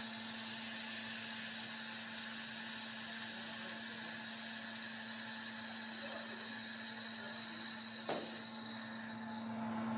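Handheld laser welding machine running during a weld: a steady hum with a high-pitched whine and hiss. A brief click comes about eight seconds in, and the sound is slightly quieter after it.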